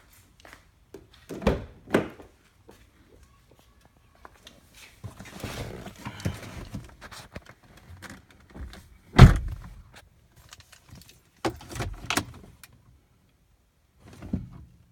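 A series of knocks and thunks from someone getting into a car and handling the keys, with rustling in between and one loud door-like thump about nine seconds in.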